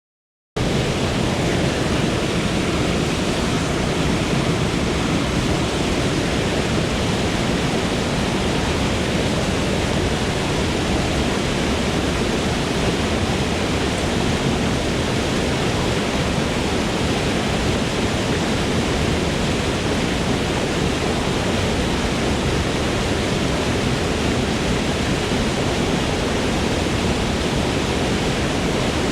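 Forest waterfall rushing: a steady, even roar of falling water that starts abruptly about half a second in.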